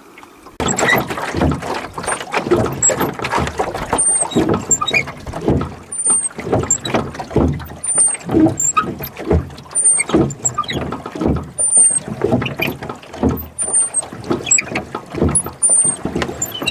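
A rowing boat being rowed, with irregular splashing and knocking of the oars. A short, high, falling squeak comes about every two seconds, once per stroke, typical of the oars working in their oarlocks.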